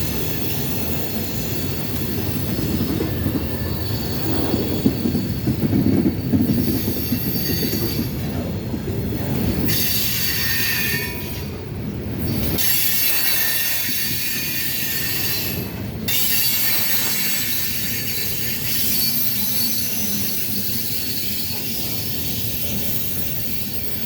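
Freight cars rolling slowly by, their steel wheels squealing against the rails over a steady low rumble. The high squeal cuts in and out several times.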